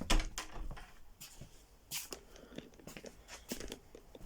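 Scattered rustling and clicking handling noises close to the microphone, the loudest just after the start and another about two seconds in.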